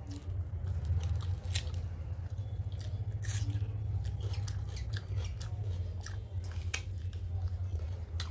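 Close-miked chewing with many short, irregular wet mouth clicks, along with fingers mixing rice and dal on the plate. A steady low hum runs underneath.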